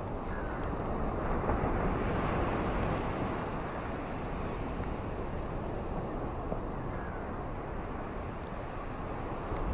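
Steady rushing of rain and wind with a low rumble, swelling a little for a couple of seconds near the start.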